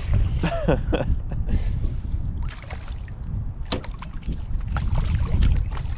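Wind buffeting the microphone in a heavy low rumble, with a few short sharp knocks scattered through the second half.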